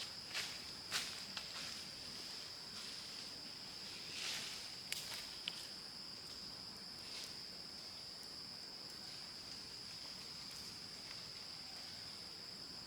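Insects droning in the forest: one steady high-pitched drone that holds throughout, with a few soft clicks and rustles in the first half.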